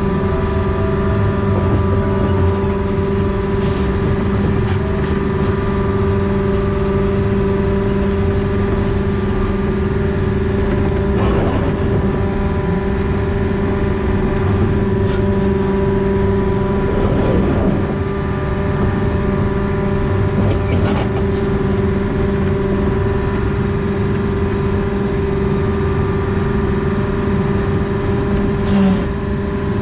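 Diesel engine of a diesel-hydraulic narrow-gauge locomotive running steadily under way, heard from the cab. It makes a continuous loud hum of several held tones, with a few faint knocks.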